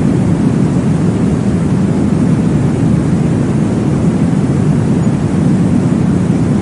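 Steady deep whooshing noise, strongest in the low range with little high hiss: a continuous baby-sleep white-noise track of the womb-sound kind. It runs evenly, without a heartbeat beat or other change.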